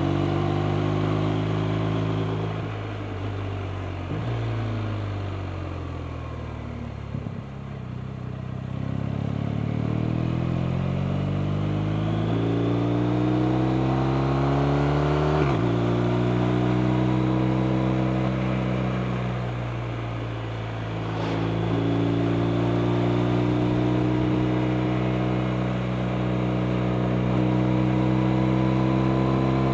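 BMW R 1250 RT's boxer-twin engine under way: its pitch falls as the bike slows, then climbs again under acceleration. It drops sharply at a gear change about halfway through, then pulls steadily again.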